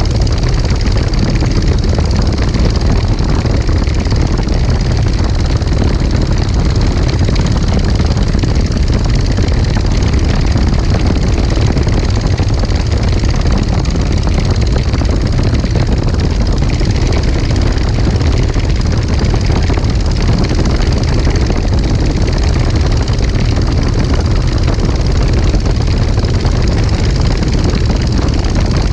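Legal Eagle XL ultralight's engine and propeller running steadily in flight: a loud, even low drone with a hiss above it that holds without change.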